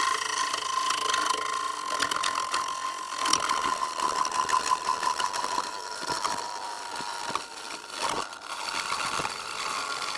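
Wood lathe running with a steady whine while a bowl gouge cuts a dried magnolia bowl, a rough, scratchy cut full of rapid ticks as the tool meets the end grain twice each rotation.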